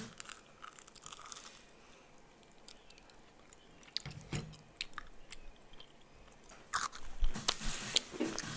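Close-up mouth sounds of someone eating: chewing and biting, with scattered wet clicks and smacks that get busier and louder near the end.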